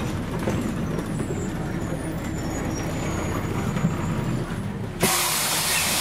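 Scania CN113CLL city bus's diesel engine (Scania DSC 11.71) running with a steady low rumble; about five seconds in, a sudden loud hiss of compressed air starts from the bus's air system.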